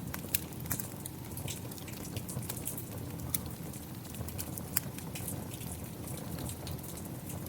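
Wood fire crackling with frequent sharp pops and snaps over a steady rush of rain.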